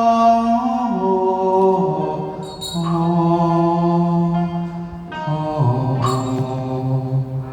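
Slow chanting with long held notes, each sustained for a second or more before sliding to a new pitch.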